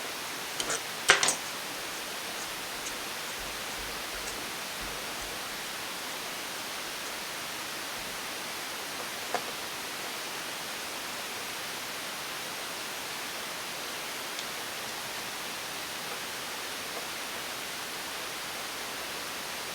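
Steady hiss of room noise with a few light clicks and taps from small parts being handled: two or three close together about a second in, and a single one near the middle.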